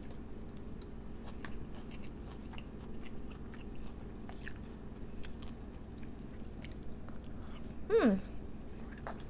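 Close-miked chewing of a mouthful of poke bowl, raw fish and mixed greens, with many small wet mouth clicks. About eight seconds in, a short falling hum of the voice with the lips closed.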